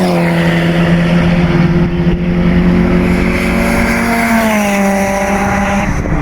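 Toyota 4A-GZE supercharged 1.6-litre four-cylinder in an AE101 Levin race car running at high, nearly steady revs under load down the straight, the pitch rising a little about four seconds in.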